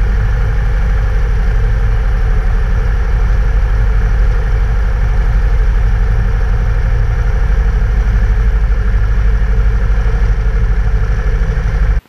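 Cessna 172's piston engine and propeller running at low power in a steady drone during the landing rollout. It cuts off suddenly near the end.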